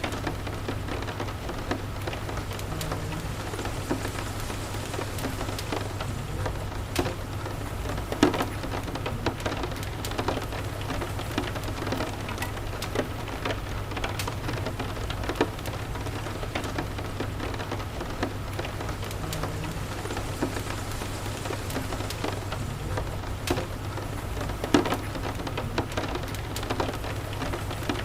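Steady rain with a fireplace crackling: scattered sharp pops and snaps over the even hiss of the rain, the loudest pops about eight seconds in and again near the end. A steady low rumble runs underneath.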